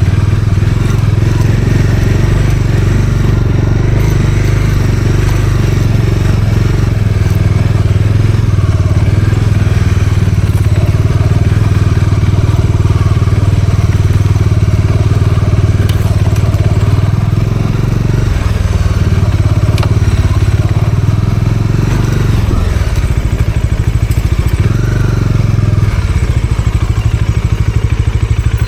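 Bajaj Dominar 400's single-cylinder engine running steadily as the motorcycle is ridden, easing off briefly a couple of times past the middle.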